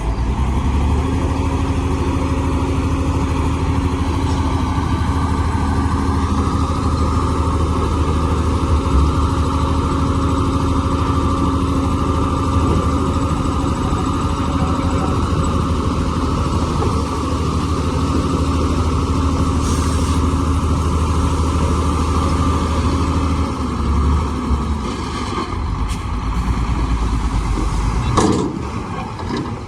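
Heavy diesel earthmoving machinery working, its engine running at a steady deep note for most of the time. The note shifts a few seconds before the end, and the sound falls away at the end.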